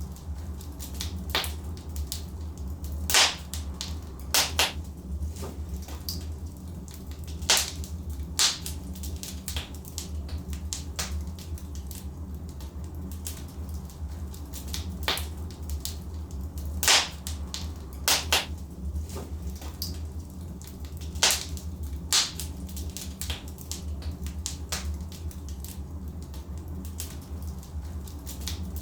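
Logs burning in a fireplace, crackling, with sharp pops at irregular intervals over a steady low rumble.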